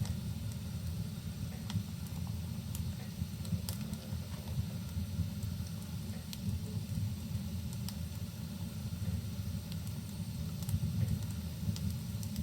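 Rain and a crackling wood fire: a steady low rumble and even hiss, with sparse crackles and pops scattered every second or so.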